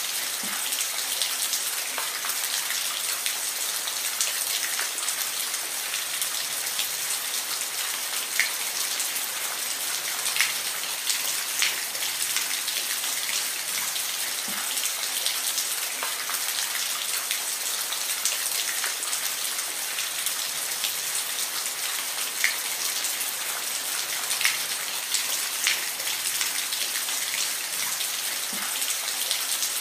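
Steady rain, a dense even hiss of falling rain with the odd louder individual drop ticking through it.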